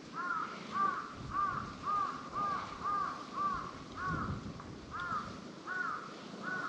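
A bird calling in a run of about eleven short, arched calls, roughly two a second.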